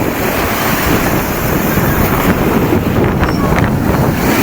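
Strong wind buffeting the microphone over the steady rush of sea waves.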